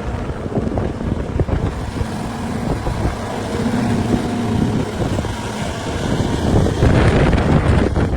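A motor vehicle running, a steady low rumble that grows louder and brighter near the end.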